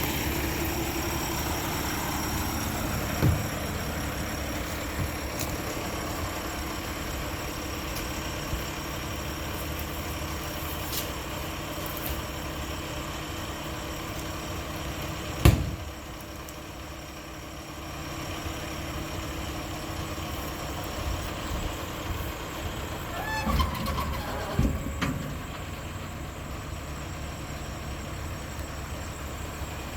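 Mack LR garbage truck's diesel engine idling steadily, with a few clanks and one loud bang about halfway through.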